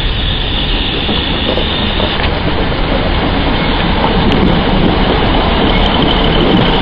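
Two-car Sprinter diesel multiple unit running past on the tracks, its engine and wheels on the rails growing slowly louder, with a thin steady high tone over the rumble.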